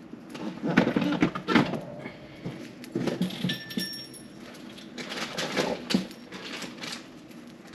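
Budgies pecking and cracking golden millet: clusters of small clicks and rustling, coming three times, with a brief thin whistle near the middle.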